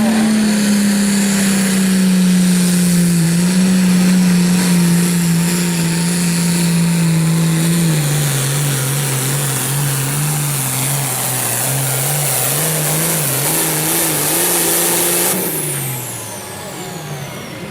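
Turbocharged diesel pulling tractor under full throttle, dragging the weight transfer sled with a high turbo whine. About halfway through the engine pitch drops and wavers as it lugs under the rising load. Near the end the throttle is shut off and the turbo whistle winds down.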